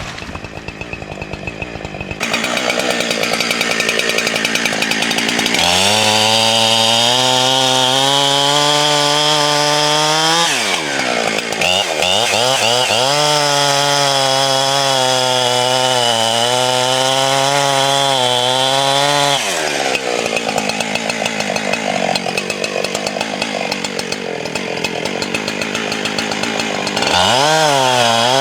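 Chainsaw running at high revs in long stretches, as in bucking or felling cuts. The engine pitch sags and recovers under load, drops back twice in between, and revs up again near the end.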